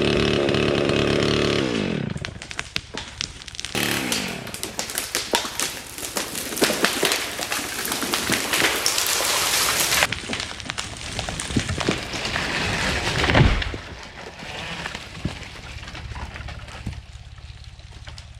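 Chainsaw running at full revs, then winding down about 2 s in as the felling cut is finished. A large tree then cracks and its branches crash through the canopy for several seconds, ending in a heavy thud about 13.5 s in as the trunk hits the ground.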